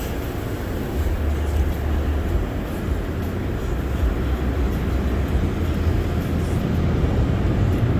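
Steady rumbling and hissing of an automatic tunnel car wash working over the car, heard from inside the cabin.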